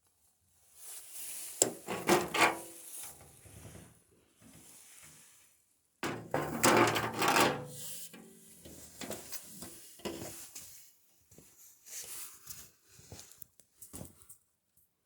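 Irregular rubbing, scraping and clattering of objects being handled, with a few sharp knocks.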